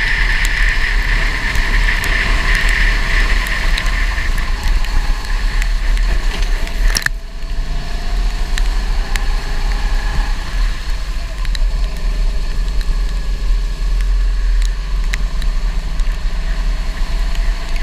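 Go-kart engine running on a wet track under a heavy, steady low rumble, with pitch rising and falling in the second half and a brief drop in level about seven seconds in.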